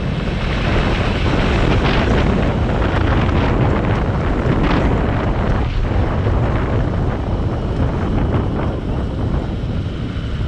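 Wind rushing over the microphone of a moving motorcycle, with a steady heavy low rumble of engine and road noise underneath and a few brief gusts.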